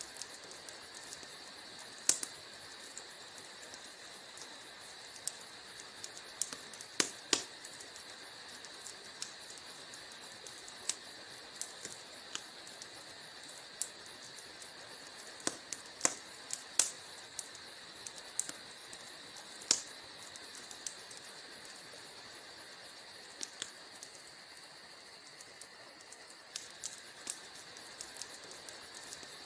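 Wood fire crackling in a fireplace: irregular sharp pops and snaps, a few of them clearly louder, over a steady faint high hiss.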